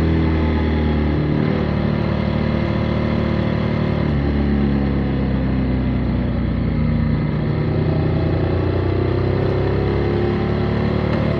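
Motorcycle engine running on the open road, its pitch dropping and climbing again several times as the revs change.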